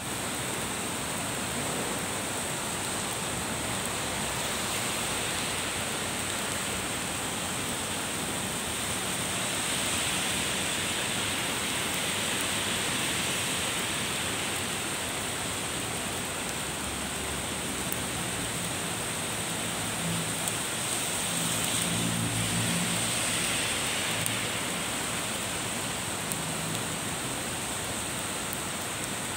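Steady rain falling on pavement, trees and road: an even, continuous hiss, with a low rumble swelling briefly about two-thirds of the way through.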